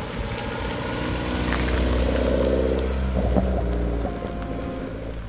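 Mini Cooper S R56's 1.6-litre turbocharged four-cylinder engine driving off, its exhaust opened up with a section cut out and replaced by a tube. It grows louder over the first two seconds or so, then fades away.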